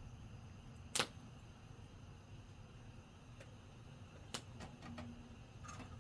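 A few isolated sharp clicks or pops over a low steady background, the loudest about a second in and another a little past the middle.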